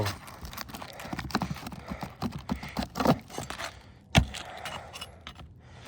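A hand tool prying a roofing nail out from under asphalt shingles: a run of small metal taps and scrapes, with one sharper knock about four seconds in.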